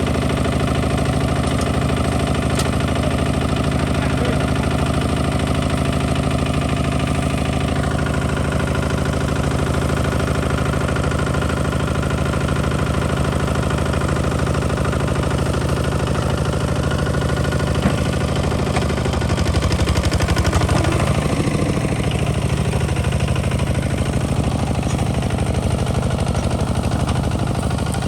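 Kubota ZT 155 DI single-cylinder diesel engine of a tractor running steadily, growing louder and rougher for a couple of seconds about two-thirds of the way through.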